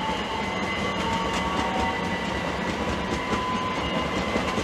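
Class 387 Electrostar electric multiple unit pulling slowly away from the platform: a steady run of wheels and rumble with the whine of its traction motors rising slowly in pitch, and wheels clicking over rail joints.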